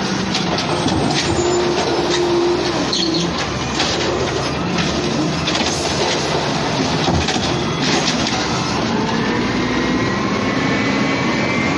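Garbage truck running close by: a heavy engine with scattered knocks and clanks, and a slowly rising whine in the last few seconds as it revs up.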